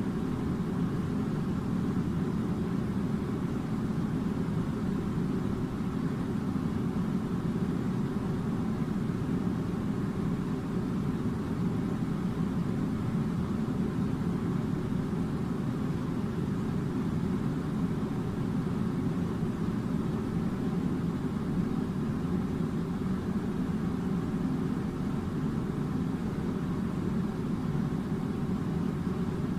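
Air conditioner running with a steady, even low hum and no changes.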